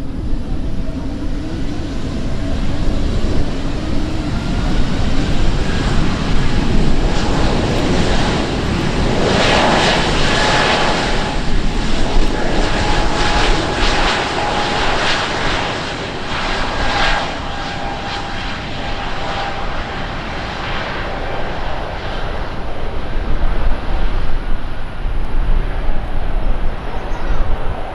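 Aircraft engines passing close by: a rushing engine noise with a steady whine in it, building to its loudest about ten seconds in and easing off in the second half.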